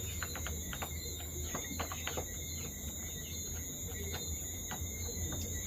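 Steady high insect trilling, like crickets, with scattered short bird chirps and clicks several times a second.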